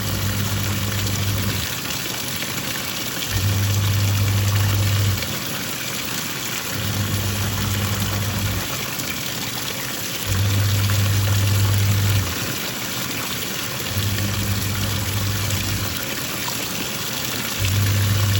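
Twin-tub washing machine's wash tub agitating: the pulsator motor hums in runs of about two seconds with short pauses between as it reverses direction, while the water churns and sloshes throughout.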